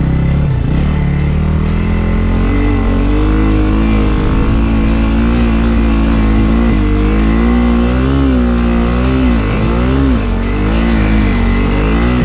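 A motor vehicle's engine revving up and down over and over, its pitch swinging repeatedly, over a steady low drone.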